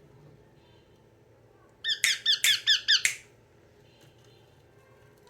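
Yellow Indian ringneck parakeet giving a quick run of about seven shrill calls, lasting just over a second, about two seconds in.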